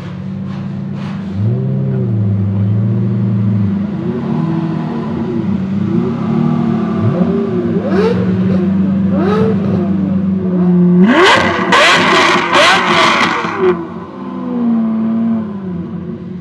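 Straight-piped Lamborghini Murciélago V12 idling and being blipped several times, then revved hard about 11 seconds in, with a rapid string of loud exhaust crackles for about two and a half seconds before it drops back to idle.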